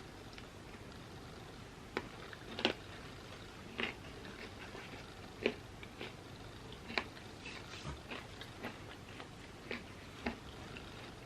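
Close-miked eating of chips: a string of crisp crunches and crackling bites, irregularly spaced about a second apart, between quieter chewing.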